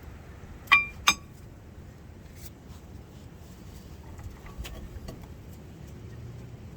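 Two sharp metal clinks with a brief ring, about a third of a second apart, then a few faint clicks and taps: metal tools or parts striking each other during brake work.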